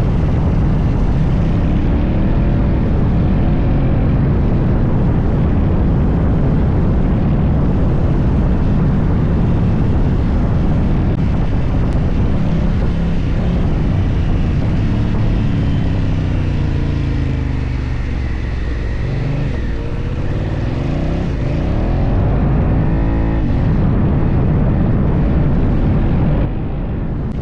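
Motorcycle engine running under way with heavy wind noise on the microphone; in the middle the engine pitch rises and falls several times as the rider changes gears and speed.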